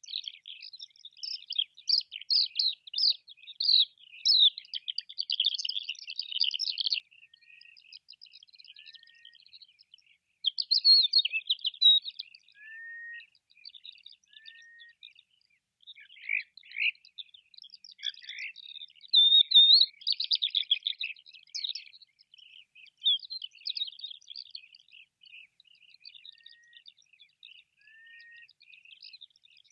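Cream-coloured courser calling: bursts of rapid, high chirping broken by short pauses, with a few soft, short falling whistles lower down.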